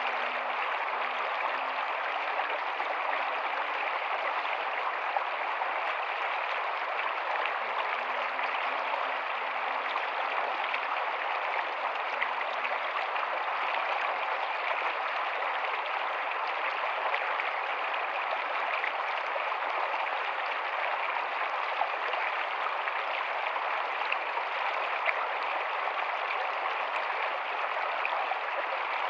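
Rocky stream running steadily over stones, a continuous even rush of water.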